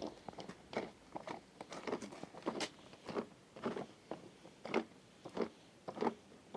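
A string of short, irregular clicks and knocks, about one or two a second, as of small hard objects being handled.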